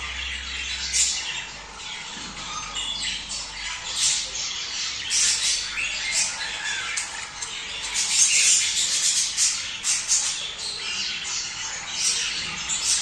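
A flock of budgerigars (budgies) calling at once: many short, high calls overlapping without a break, busiest about two-thirds of the way through. This is the budgie mating chatter used to stimulate pet birds to breed.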